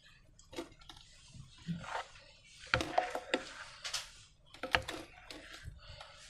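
Hand-handling noises while making slime: irregular soft clicks, crackles and squishy rustles of slime, balloons and containers. The loudest handling comes about three seconds in and again near five seconds.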